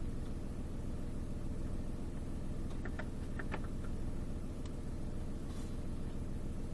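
Car engine idling steadily, left running, with a few faint short clicks about three seconds in.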